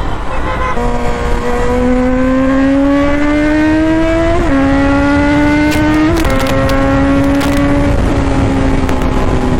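Kawasaki Z900's inline-four engine accelerating through the gears: its pitch climbs, drops sharply at upshifts about four and a half and six seconds in, then holds roughly steady at cruise, easing slightly near the end, over a heavy rumble of wind noise.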